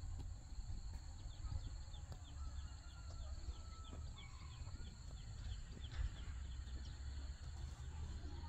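Outdoor ambience: a bird chirping in a quick run of short, evenly spaced notes, about three a second, over a steady high hum and a low rumble.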